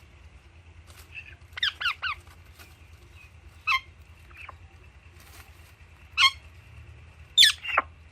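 Pet parrots (Alexandrine and Indian ringneck) giving short, sharp chirping calls that drop in pitch: a quick run of three, then single calls, and a pair near the end whose last call slides far down.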